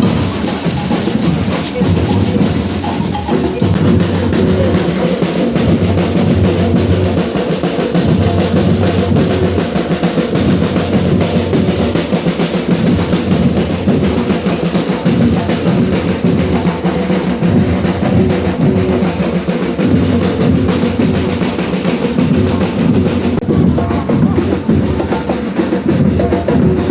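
A carnival bloco's drum section playing a steady, loud percussion rhythm, with deep bass drums under snare drums.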